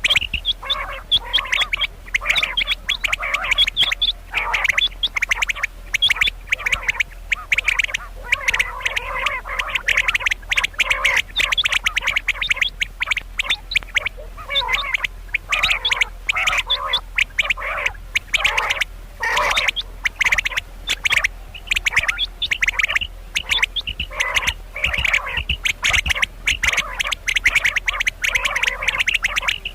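Female common quail calling: rapid short 'kirak' notes repeated over and over with only brief breaks.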